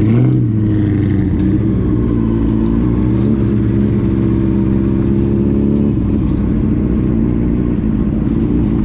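Car engine running at fairly steady revs, with a short rise in revs at the very start.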